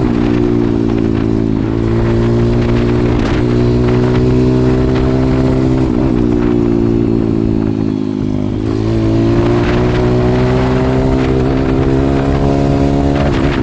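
140cc pit bike's single-cylinder four-stroke engine running under way. Its pitch climbs steadily and then drops sharply about five times, a few seconds apart.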